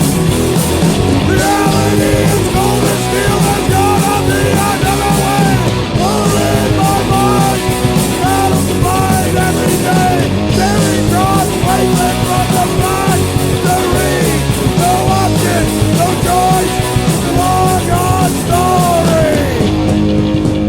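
Oi/skinhead punk rock band playing: distorted electric guitars, bass and drums, with a bending lead melody riding over the top.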